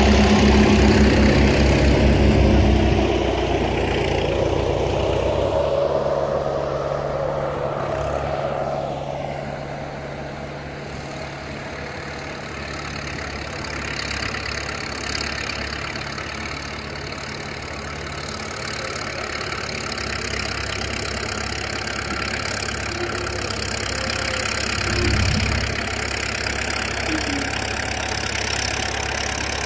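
Tractor engine running while scooping, loudest for the first few seconds, then settling to a lower steady run, with a brief swell near the end.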